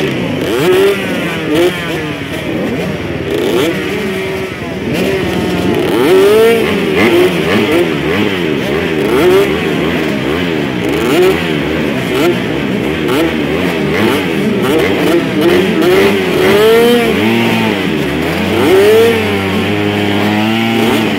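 A pack of motocross dirt bikes racing, many engines overlapping as they rev up and drop back through the gears. Near the end one engine holds a steadier pitch.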